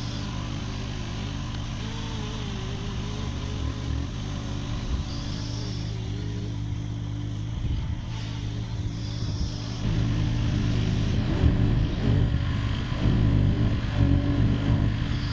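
UHI UME12 mini excavator's small Yanmar diesel engine running steadily while it digs, with a faint wavering whine above it. The engine gets louder and rougher about two-thirds of the way in.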